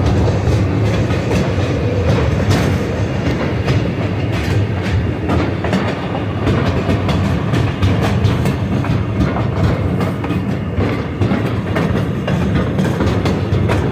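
Heritage railroad passenger car in motion: a steady rumble of wheels on the track with scattered clicks and knocks from the rails.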